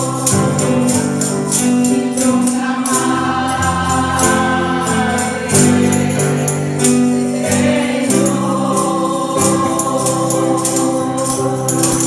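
Church praise music: voices singing over held keyboard or bass chords, with a steady percussion beat.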